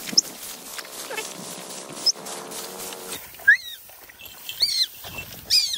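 A bird gives loud, harsh calls, four quick hooked notes that start about halfway through. Before them comes rustling through rice stalks, with a couple of short squeaks.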